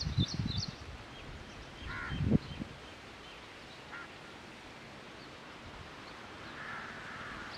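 Bird calls in the open: a few short high chirps at the start and a brief call about two seconds in, with low thuds of wind or handling on the microphone at the start and just after the second call.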